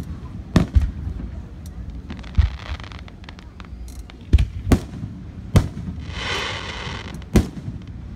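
Aerial fireworks shells bursting overhead: about half a dozen sharp bangs at uneven intervals, with a hiss lasting about a second near the end.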